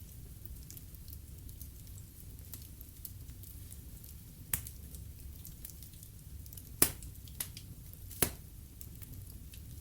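Wood fire crackling in a fireplace: a steady low rumble of burning logs with a few sharp, scattered pops, the two loudest in the last third.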